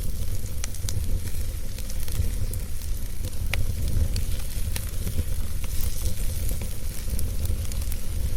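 Wood fire burning, with scattered sharp crackles and pops over a steady low rumble and hiss.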